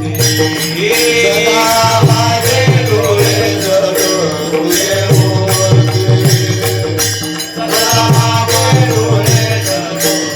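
Varkari bhajan: a male voice singing a traditional devotional melody over mridang (pakhwaj) drumming, with small hand cymbals (taal) keeping a steady beat.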